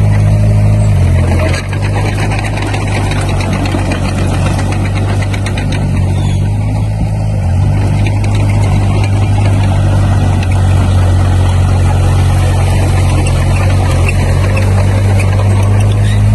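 Heavy-equipment diesel engine running steadily, with a low drone and mechanical clatter; the engine note dips briefly about a second in and shifts again about halfway through.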